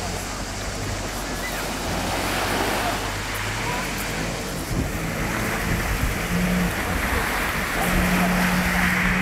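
Jet ski engine running with a steady low hum that steps up in pitch about four seconds in, over a constant rush of water spray and wind.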